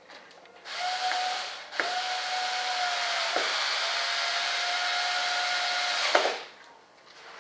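Pressurised gas hissing out of a nozzle with a faint steady whistle: a short burst of about a second, then a longer burst of about four seconds that cuts off sharply.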